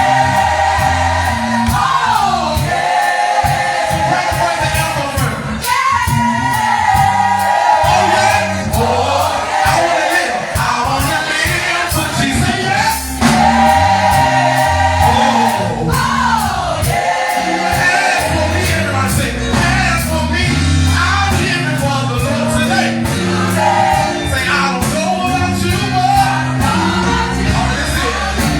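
Gospel choir singing held harmonies with sliding vocal runs over instrumental accompaniment with a moving bass line.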